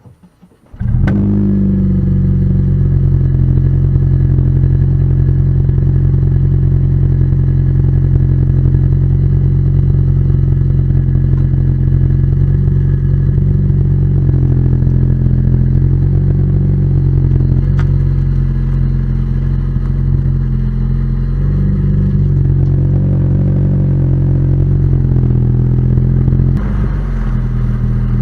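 Honda Vezel Hybrid's 1.5-litre four-cylinder engine running through an aftermarket STYLE-BAY ROZA muffler with titanium tail, heard while driving. The deep exhaust note comes in suddenly about a second in and holds steady, with a few distinct changes in the note as the gearbox shifts.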